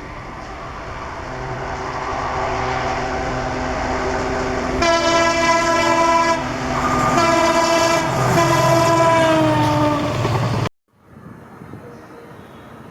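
A WDG-4D diesel locomotive's train running closer and louder, then its horn sounding twice: a short blast, then a longer one that drops in pitch at the end. The sound cuts off abruptly near the end, leaving a quieter background.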